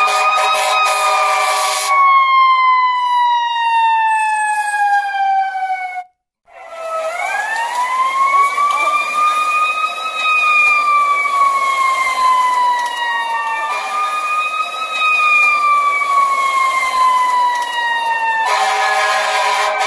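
Fire truck siren in a slow wail, its pitch rising over a couple of seconds and falling away slowly, over and over, with a brief break about six seconds in.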